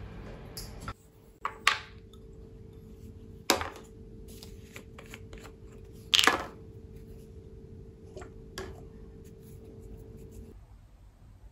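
Several sharp knocks and clatters of objects being handled, the loudest about six seconds in, over a steady humming appliance that cuts off near the end.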